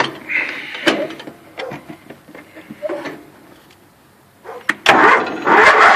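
A few scattered knocks and clicks, then the 1984 Craftsman GT/18 lawn tractor's engine cranks briefly about five seconds in and catches, running loud and steady.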